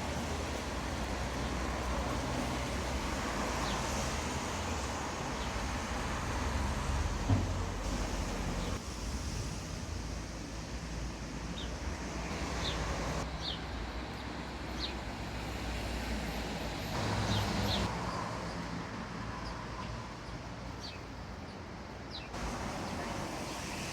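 Street traffic: cars passing, their engines and tyres making a rumble that swells and fades. A few short high chirps sound over it.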